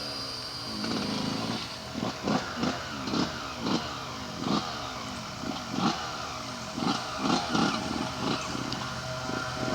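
2005 Yamaha YZ125's freshly rebuilt 124cc single-cylinder two-stroke engine running, blipped with quick, sharp revs about twice a second, each falling straight back.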